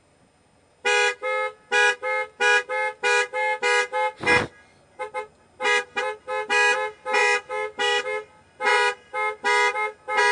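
Car horn honked in a rapid, irregular run of short blasts, about three a second, over roughly nine seconds. One brief low thud sounds about four seconds in.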